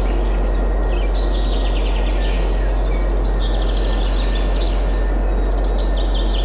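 Several songbirds singing in quick, repeated chirps and trills over a steady rush of wind with a deep, constant rumble.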